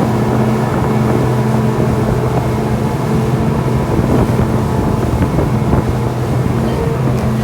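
Glass bottom tour boat's engine running steadily under way, a constant low hum, with wind buffeting the microphone.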